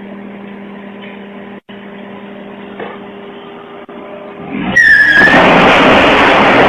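A car engine humming steadily, heard from inside the vehicle. About three-quarters of the way in it gives way to a much louder rush of road and tyre noise, with a brief falling squeal at its start.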